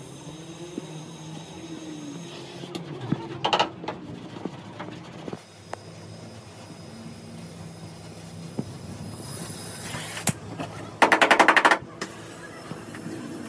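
Workshop tool noise: a steady mechanical hum with scattered knocks, a short loud burst about three and a half seconds in, and a loud, rapid rattling burst lasting under a second near the end.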